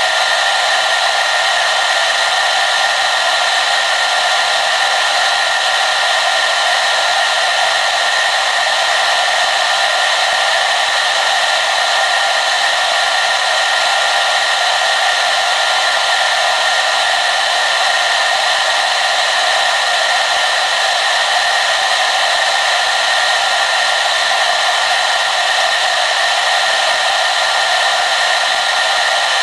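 Hair dryer running steadily on one setting, a constant rushing whoosh of air with a faint steady whine and little low end.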